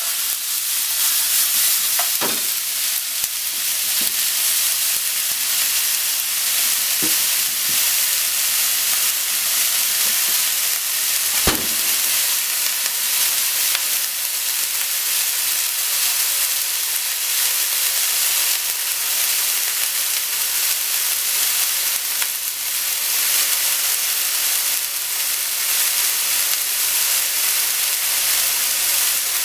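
Pork and sliced onion sizzling steadily in a nonstick frying pan over a gas flame. A few sharp knocks of the spatula against the pan come in the first dozen seconds, the loudest about 11 seconds in.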